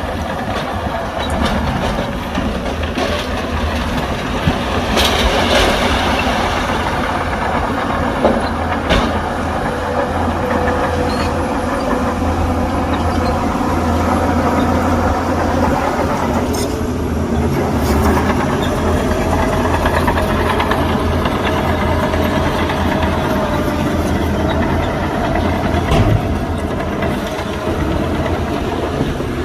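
Heavy diesel earthmoving machinery running steadily under load, with scattered metallic clanks and rattles.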